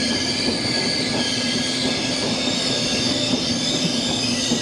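A train moving, a steady rumble with several high, steady squealing tones from the wheels on the rails.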